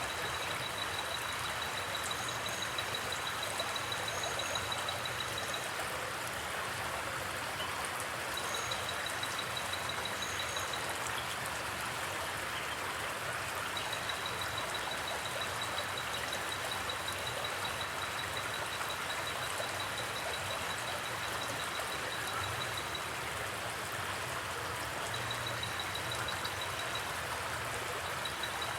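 Steady rush of a flowing stream. A faint, high, rapid trill comes in and out several times over it.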